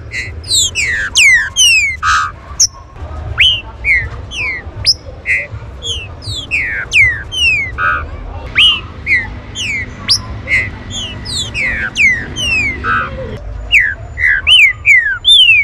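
Green-winged saltators (trinca-ferro) calling in a rapid, busy stream of short whistled notes that slide downward in pitch, many overlapping. A steady low rumble runs underneath.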